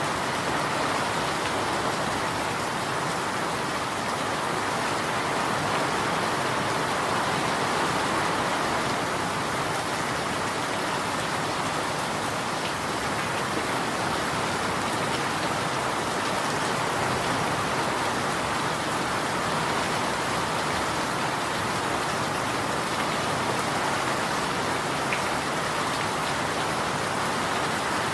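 Steady rain falling, an even, unbroken hiss of drops with no let-up.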